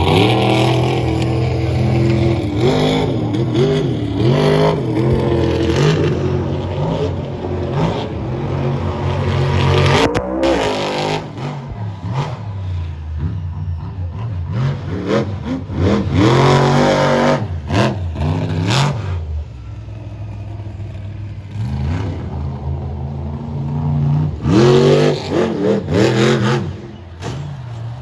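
Monster truck engine running loud, revved up and down in several bursts with steady running between them.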